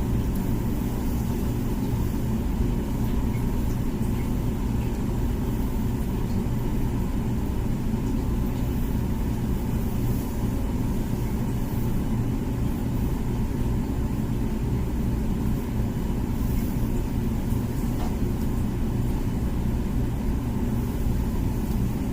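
Comfee dishwasher running its wash cycle: a steady low rumble and hum from the wash pump, unchanging throughout.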